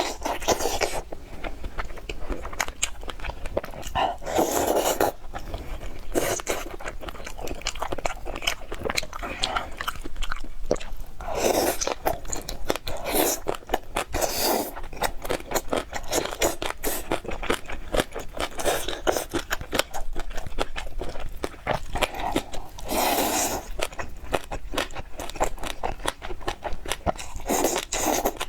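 A person chewing and biting food close to the microphone: a steady run of small crunching and mouth clicks, with a few louder bursts along the way.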